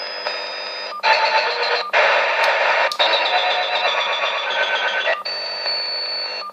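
An unidentified noise picked up on the 27 MHz CB band and heard through a radio: a hiss of static with several steady whistling tones on top. It changes abruptly in blocks about every one to two seconds.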